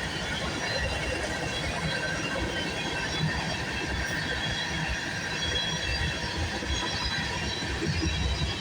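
Freight train cars rolling past, a steady rumble of wheels on rail with a faint high squeal from the wheels.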